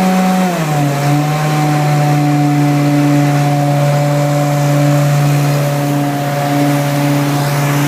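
BlueLine Thermal Wave 5M truck-mount carpet cleaner running at its dual-wand speed, its engine and vacuum blower giving a steady hum. The pitch drops slightly about half a second in as the speed settles, then holds steady.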